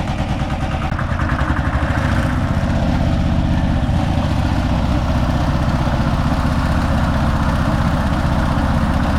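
Konma MT-S411D harvester (stationary thresher) running under its engine, the rhythmic machine noise rising over the first couple of seconds and then holding steady.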